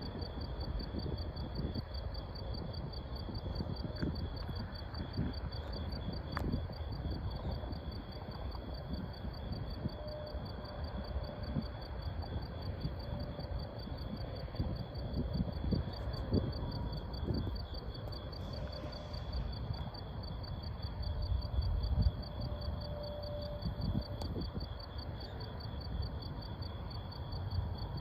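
Summer-evening insect chorus: a steady, fast-pulsing trill of crickets or katydids, over a continuous low rumble.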